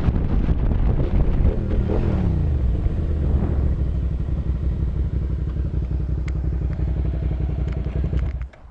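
Motorcycle engine running, its pitch sweeping up and down about two seconds in, then holding steady before cutting off abruptly near the end.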